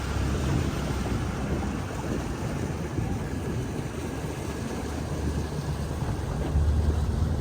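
Dinghy with an outboard motor underway, with wind buffeting the microphone and water rushing past the hull; the motor is not heard as a clear tone.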